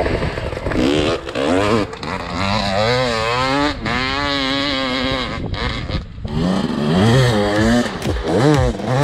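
Enduro dirt bike engine revving hard, its pitch rising and falling over and over under the throttle, with a few short drops in between.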